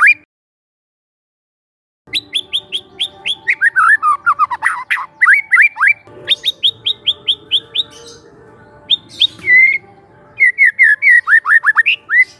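Young wild white-rumped shama (murai batu) singing in rapid runs of sharp, falling whistled notes, several a second, in phrases broken by short pauses. The song starts about two seconds in, after dead silence.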